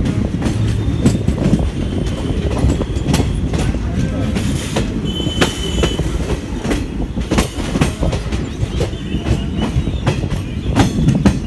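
Passenger train running, heard from onboard a coach: a steady low rumble with many sharp clicks from the wheels crossing rail joints and points. A brief high squeal comes about five seconds in.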